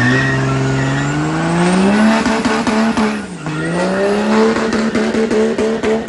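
A motor vehicle engine accelerating. Its pitch rises steadily for about two seconds, drops briefly a little after three seconds in, then climbs again and holds with a fast regular pulsing.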